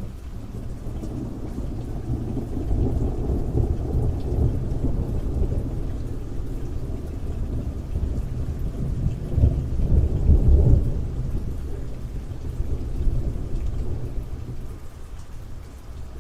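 Rolling thunder over steady rain. The deep rumble builds a few seconds in, is loudest about two-thirds of the way through, then dies away near the end.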